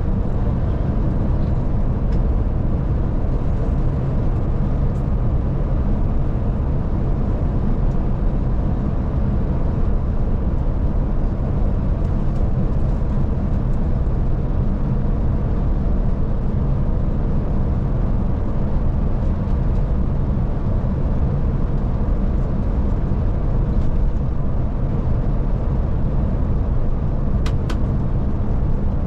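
Scania Touring coach on the move, heard from on board: its diesel engine and road noise make a steady low drone. There are two faint clicks near the end.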